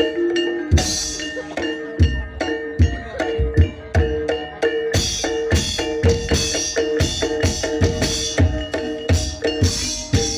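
Ebeg gamelan accompaniment: kendang hand-drum strokes in a quick, busy rhythm over struck tuned percussion holding ringing tones.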